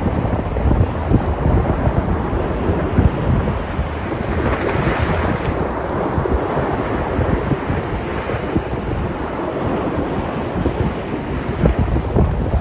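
Sea surf washing onto the shore, with wind buffeting the microphone. A wave breaks about four and a half seconds in.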